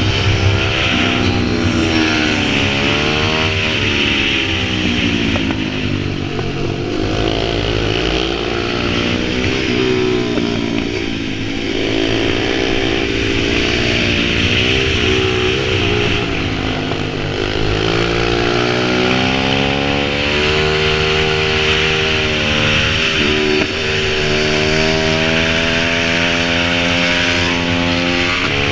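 Small single-cylinder pit bike engine running and revving, its pitch rising and falling again and again.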